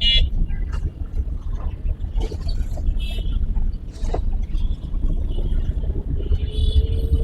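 Car driving, a steady low rumble of engine and road noise, with a few short high-pitched tones over it near the start, about three seconds in, and near the end.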